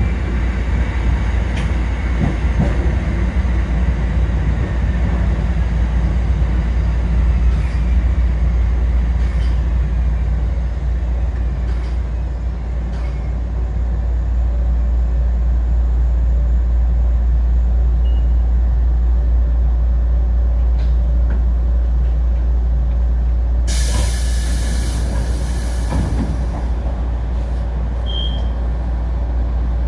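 Kotoden commuter electric train running on the rails, heard from on board: a steady low rumble with wheel and rail noise. About 24 seconds in, a loud hiss of air lasts about two seconds.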